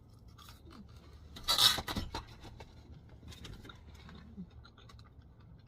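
Light handling noises: scattered small clicks and knocks, with one louder brief rustling scrape about one and a half seconds in.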